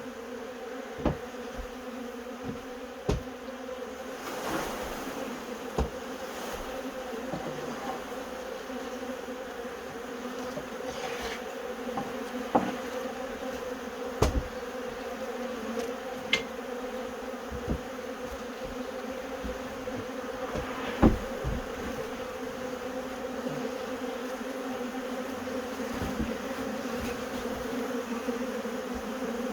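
A swarm of honey bees buzzing: a dense, steady hum. A dozen or so short, sharp knocks are scattered through it, the loudest about 21 seconds in.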